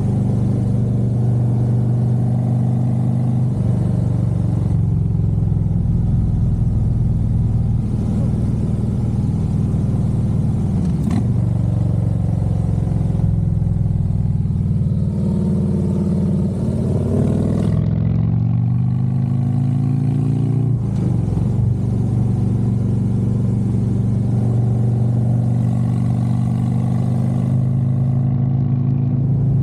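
Harley-Davidson Road Glide's V-twin engine running steadily under way. About halfway through, the engine note falls and rises again as the throttle is eased off and reopened, and there is a brief click about a third of the way in.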